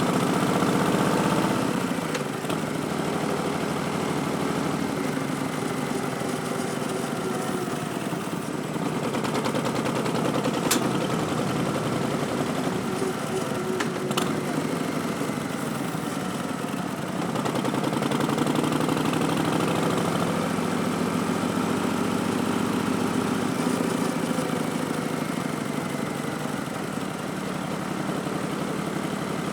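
2019 Harley-Davidson Street Bob's Milwaukee-Eight 107 V-twin running through Vance & Hines Twin Slash slip-on mufflers while riding, with the pitch rising under throttle near the start, settling, and climbing again a little past halfway. Two short sharp clicks are heard, around a third of the way in and again about halfway.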